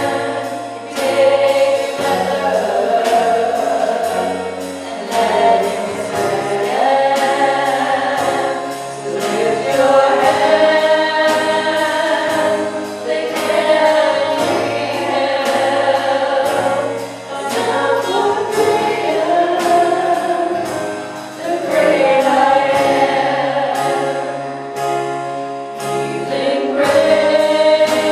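Contemporary Christian worship song: several voices singing together over a band with sustained bass notes and a steady percussion beat.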